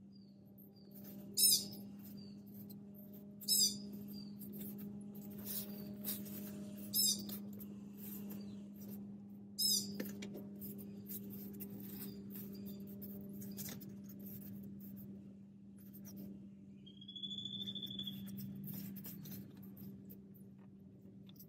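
A bird calling: a sharp, high, falling call repeated four times about two seconds apart, then a longer whistled note near the end. Under it are a steady low hum and faint taps and scrapes of dough being cut and shaped on a plastic cutting board.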